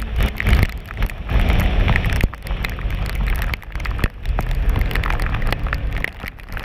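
Riding in heavy rain on a Kawasaki ER-6n: a loud rush of wind and rain noise, with irregular taps of raindrops hitting the camera, and the parallel-twin engine only faintly audible underneath.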